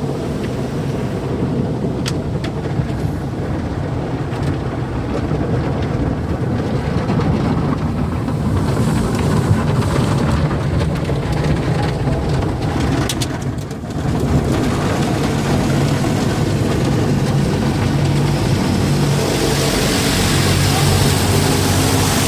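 Automatic conveyor car wash working over a pickup truck, heard from inside the cab: a steady rumble of water and wash equipment against the body, with a few sharp knocks. A louder hiss of spray sets in near the end.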